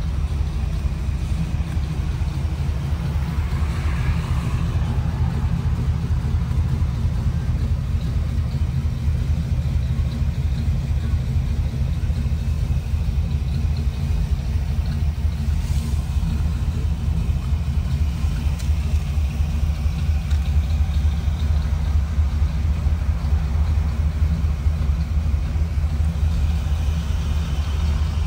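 327 V8 of a 1956 Ford F100 panel truck idling steadily with a low, even rumble.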